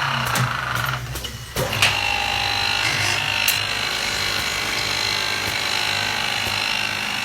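Automatic wood lathe running and cutting a wooden part: a steady machine hum under a hissing cut, which dips briefly about a second in, with a sharp click just after.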